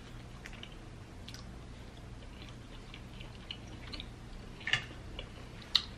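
Close-miked chewing of seafood, with soft, scattered mouth clicks and two sharper clicks in the second half.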